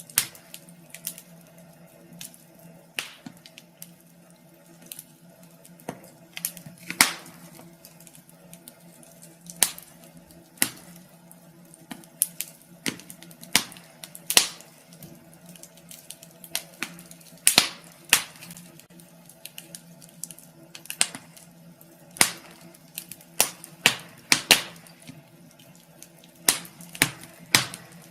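Wood fire crackling in a fireplace: irregular sharp pops and snaps, roughly one every second or two and sometimes in quick clusters, over a faint steady low hum.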